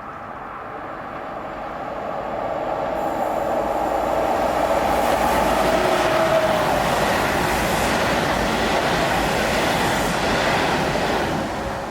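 SJ X2000 high-speed electric train going by, its rolling noise building from about two seconds in, loudest through the middle, and falling away near the end.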